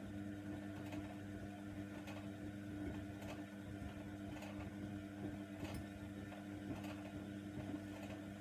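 Hoover Nextra washer dryer running: a steady motor hum, with a faint click about once a second.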